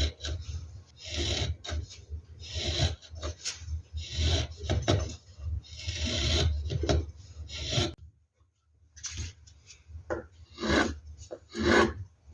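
Hand tool working wood in guitar making: repeated rasping, scraping strokes, with a pause of about a second two-thirds of the way through.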